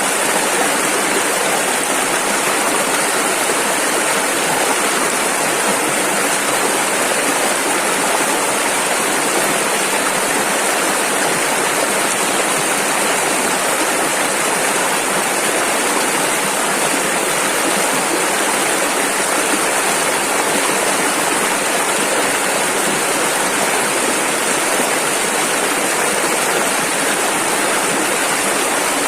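Rushing river water: a steady, even wash of flowing rapids with no breaks or changes.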